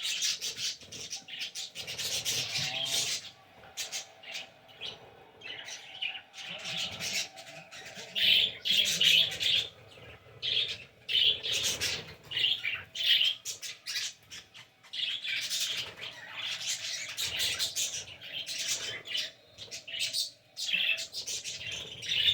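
Several caged pet birds chirping and squawking on and off, in short repeated calls.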